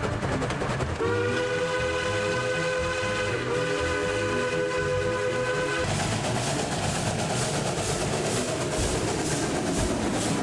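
Steam locomotive whistle blowing a long chord for about five seconds, with a brief dip near the middle, over the rumble of the moving train. After it stops, the exhaust chuffs in a steady beat of about two a second.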